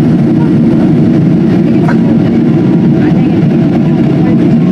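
Steady, loud cabin noise inside a Boeing 777-200 airliner in flight: the even drone of engines and airflow, with faint voices underneath.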